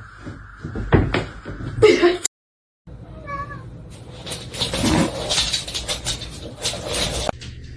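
A cat meowing in short calls, followed by a run of sharp clicks and rustling.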